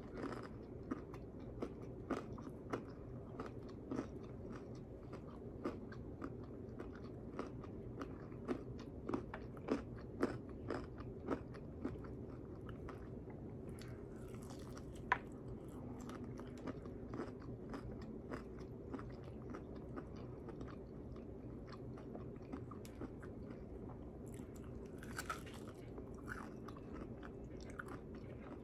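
A person biting and chewing crispy Popeyes fried chicken close to the microphone, with many sharp crunches of the breading. The crunches come thick and fast for the first dozen seconds, then thin out, over a faint steady hum.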